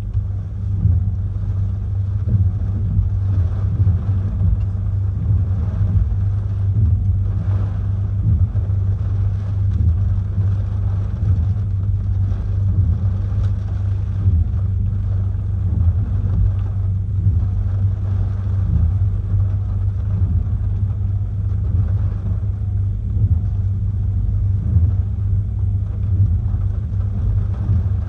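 Hurricane wind buffeting the microphone: a loud, continuous low rumble with gusts swelling through it, one strong gust about seven seconds in.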